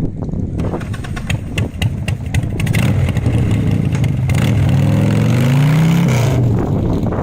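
Motorcycle engine revving as the bike pulls away, its pitch climbing for a couple of seconds and dropping near the end, with a run of sharp pops in the first two seconds.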